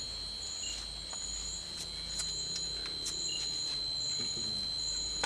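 Insects calling: one holds a steady high-pitched trill, while another repeats short, even higher pulses about once a second.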